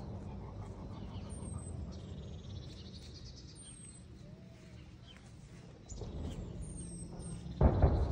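Small songbirds calling: a high, thin falling note repeated every couple of seconds and a short rattling trill, over a steady low rumble. A brief loud rumbling burst comes near the end.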